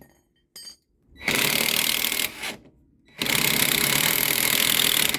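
Impact wrench hammering in two long bursts, a pause between them, as it undoes a rear shock absorber's mounting bolt.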